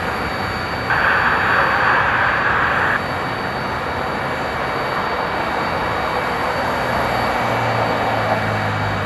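Boeing 767-300 jet engines droning steadily as the airliner climbs away after takeoff, with a brief louder hiss about a second in, lasting two seconds.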